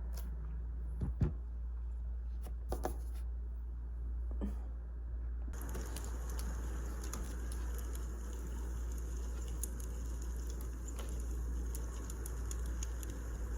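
Wood fire crackling with many small sharp pops over a steady low hum. The dense crackle comes in suddenly about five seconds in, after a few isolated clicks.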